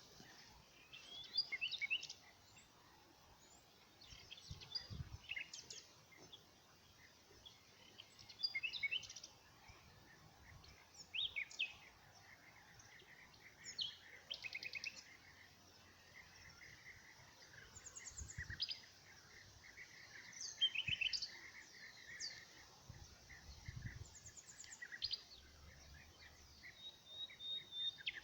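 Several small birds singing and calling outdoors: short chirps and whistled phrases every second or two, with a rapid trill running through the middle and a held high note near the end.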